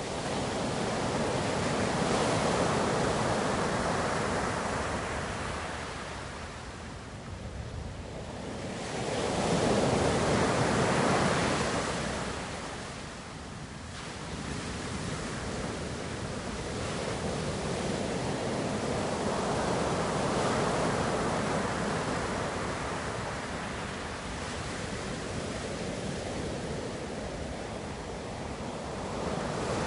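Ocean surf: waves breaking and washing in, the rush swelling and easing in three slow surges, loudest about ten seconds in.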